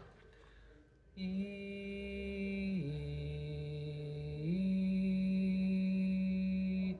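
A man singing the baritone part of a barbershop tune-up as three long held notes: the middle note is lower, and the last is back at the first pitch and held until it stops near the end.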